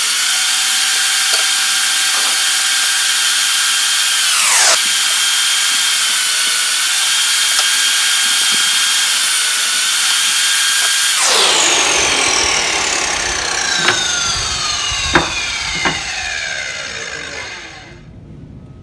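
Electric power cutting tool running at full speed with a steady high whine while cutting material. It dips briefly and picks back up about five seconds in. From about eleven seconds in it is switched off and winds down in a long falling whine, with a few sharp clicks, stopping near the end.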